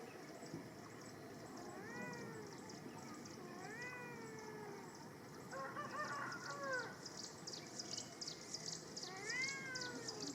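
Kittens meowing several times, each meow rising then falling in pitch. From about halfway through, a rapid high-pitched chirping runs underneath.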